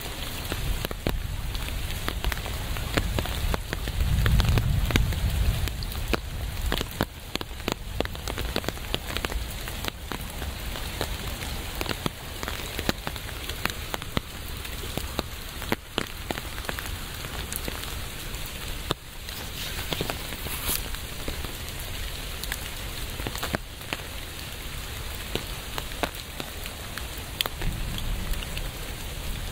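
Steady rain falling, with many close drops striking sharply as separate clicks over the even hiss. A low rumble swells briefly about four seconds in, and more faintly near the end.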